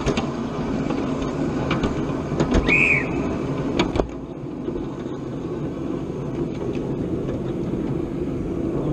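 Live-steam miniature railway train running, a steady rumble with scattered clicks from the wheels over the track. A brief high squeal comes about three seconds in.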